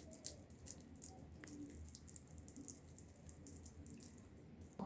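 Faint, sticky clicking and squishing of hands rolling raw chicken mince into a ball, many small wet ticks in quick succession.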